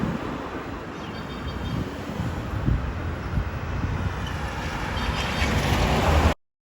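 Rumble of a Boeing 777-200ER jet airliner, rising in loudness toward the end with a faint high whistle now and then, then cutting off abruptly.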